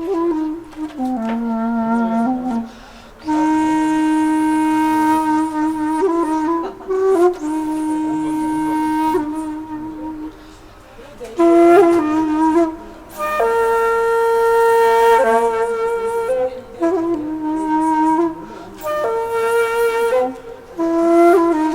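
Background music: a solo flute-like wind instrument playing a slow melody of long held notes, with short bends and ornaments between them.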